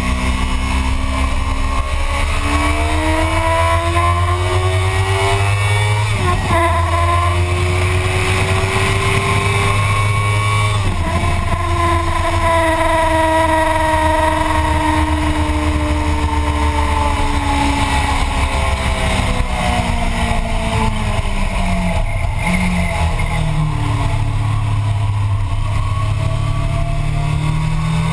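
Motorcycle engine at speed on a race track. It revs up through two quick upshifts, each a sharp drop in pitch before climbing again, then the revs fall slowly through a long slowdown and rise again near the end, over heavy wind rush.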